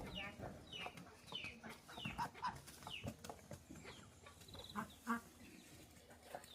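Chickens peeping: a series of short, high calls that each fall in pitch, repeating several times a second, with scattered faint knocks and rustles beneath.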